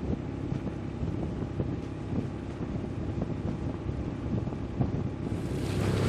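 Sailing yacht under way, its engine running with a steady drone, with wind buffeting the microphone. The wind noise grows stronger about five seconds in.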